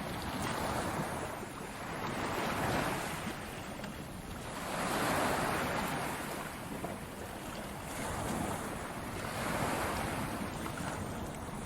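Ocean surf, waves breaking and washing in over and over, the rush swelling and falling back about every two to three seconds.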